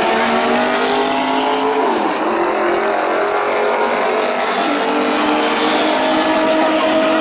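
Four-rotor rotary engine of a Mazda Group C race car running loud. Its pitch dips sharply about two seconds in, then climbs slowly again.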